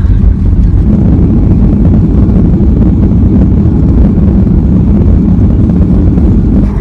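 Loud, steady low rumble heard inside a jet airliner's cabin as it lands on the runway, easing slightly at the very end.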